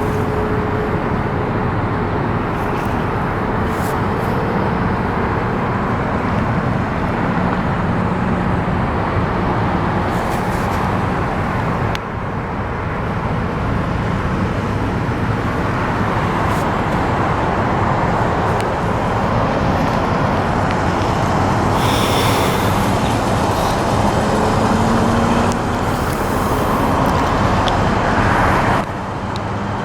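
The 1966 Chevy C-10 pickup's 350 V8 running under way, a steady engine and road noise whose pitch slowly rises and falls. There is a brief dip in level about twelve seconds in and another near the end.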